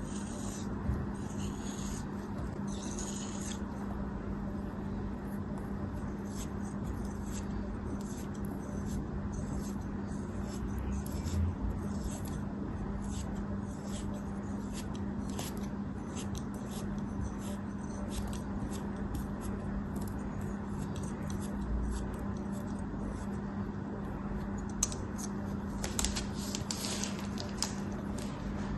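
A blade cutting through soft, crumbly soap or kinetic sand: many small crisp clicks and crunches, with stretches of gritty scraping near the start and again near the end. A steady low hum runs underneath.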